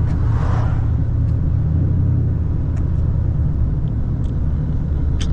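A straight-piped Camaro SS's 6.2-litre V8 running steadily, a low, even exhaust drone heard from inside the car.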